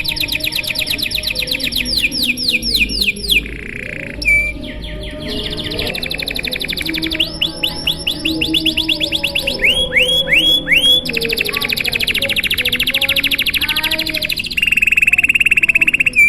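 Domestic canary singing a long, continuous song made of fast trills of repeated down-sweeping notes. The trills change speed from phrase to phrase, with a few slower, louder sweeps in the middle and a steady buzzing roll near the end.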